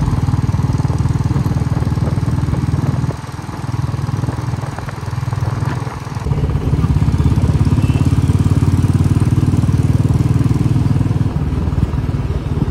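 Royal Enfield motorcycle's single-cylinder engine running under way, a rapid steady pulsing. It eases off about three seconds in and picks up again about six seconds in.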